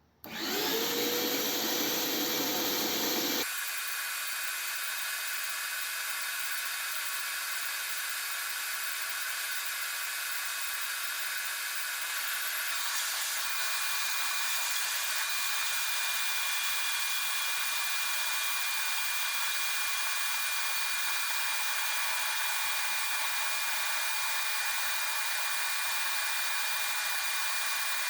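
Vacuum cleaner motor starting up with a rising whine that levels off. About three seconds in the sound changes abruptly and then runs steadily as a high hiss and whine while the vacuum is drawn on the radiator neck to hold the coolant in the system.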